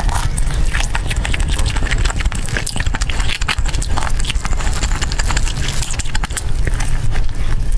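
Close-miked eating: rapid wet chewing and mouth-smacking clicks, dense and irregular, over a steady low hum.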